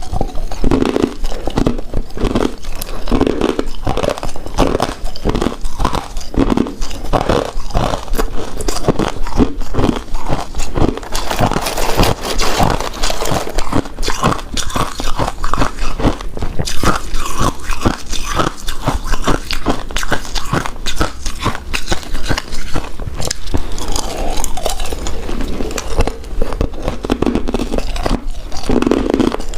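Close-miked chewing of a chewy rice cake coated in shredded coconut: a steady, dense run of small wet mouth clicks.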